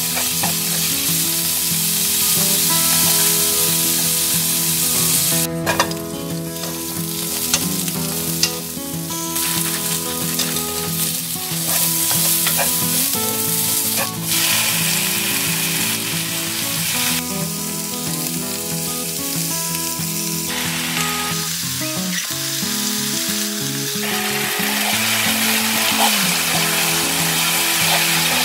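Food sizzling and frying in a nonstick wok as it is stir-fried: first thin-sliced beef brisket, then cabbage, onion and dried peperoncino chilies, then thick glass noodles in sauce. The sizzle changes level abruptly at several cuts, with a few sharp clicks.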